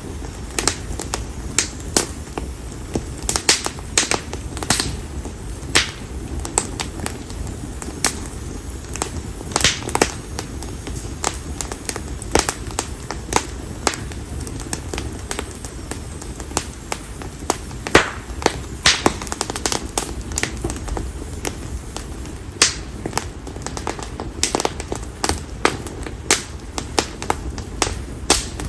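Konara oak firewood burning in an open bonfire, crackling with irregular sharp pops and snaps, several a second and some much louder, over a steady low rumble.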